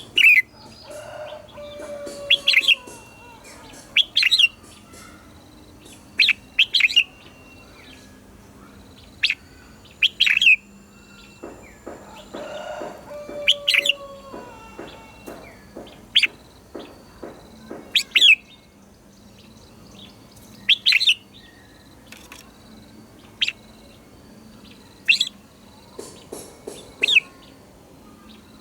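Red-whiskered bulbul singing, short loud whistled phrases repeated every one to three seconds, with a fainter, lower call twice in between.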